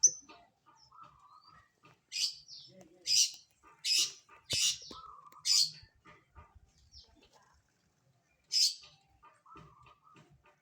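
Long-tailed shrike (cendet) giving a series of short harsh calls, about six in all, spaced irregularly.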